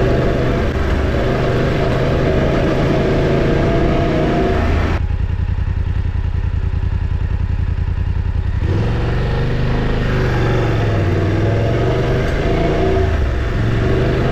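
Motorcycle engine running under a rushing noise. About five seconds in, the rushing drops away for nearly four seconds, leaving the engine's steady low beat. Then it returns as the engine pitch rises and falls again.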